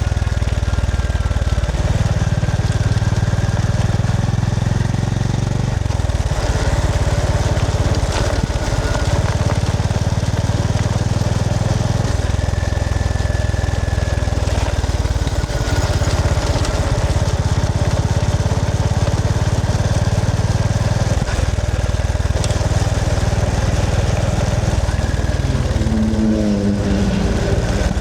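Honda GB350S's air-cooled single-cylinder engine running while the bike is ridden, its note shifting a few times and rising in pitch near the end as it accelerates.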